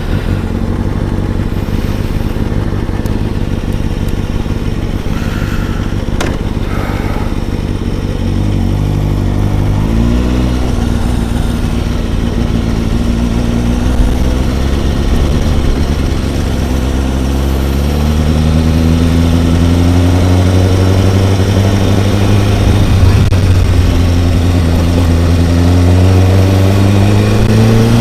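Kawasaki ZX-6R 636 inline-four engine running, its pitch climbing about ten seconds in and again in a long rise from about eighteen seconds, getting louder toward the end.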